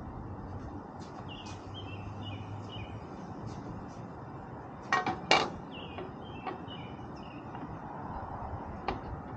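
Birds chirping in a run of short, repeated high notes over steady outdoor background noise, with two sharp knocks close together about five seconds in.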